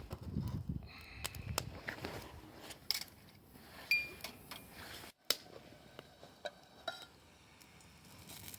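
Cookware being handled: scattered knocks and clicks, with a short ringing metallic clink about four seconds in.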